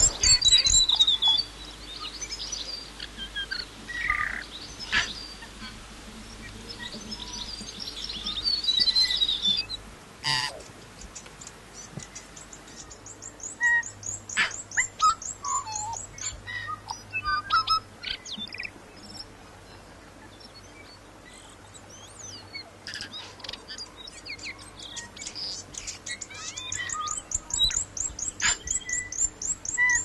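Forest birds calling and singing: repeated runs of quick, high falling chirps, with scattered lower calls in between.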